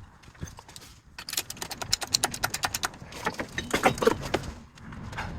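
Rapid metallic clicking and rattling, in a quick run of clicks in the middle and further clusters near the end, as a truck engine is worked into line with its transmission.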